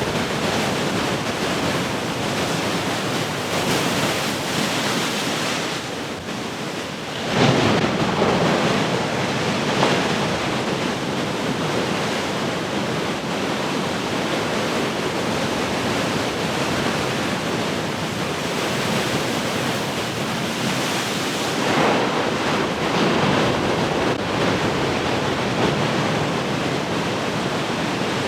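Heavy ocean surf: large waves breaking and washing in as a continuous rush. After a brief lull, a wave crashes sharply about seven seconds in, with a smaller crash a couple of seconds later and another swell of surf later on.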